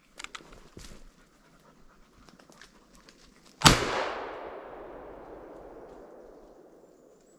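A single shotgun blast at a ruffed grouse, about three and a half seconds in, echoing and dying away slowly over about three seconds. Before it, a dog pants softly amid light rustling.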